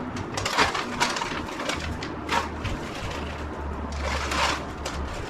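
Bag crinkling and dehydrated rice and vegetables rattling as the dry meal is packed in, in several short irregular bursts. A low steady hum runs underneath from about two seconds in.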